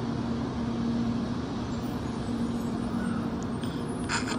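A 700 Series Rail Star shinkansen train rolls slowly along the platform to a stop, giving a steady low electric hum over a rumble. Near the end there is one brief sharp high-pitched sound.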